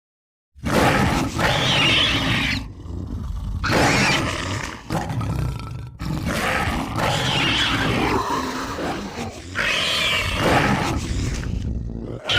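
Film monster sound effects: the Kothoga creature's deep, rough growls and roars, a man's voice performance worked into a beast's. They come in four long bouts with short breaks between them, starting about half a second in after silence, and a fifth begins at the very end.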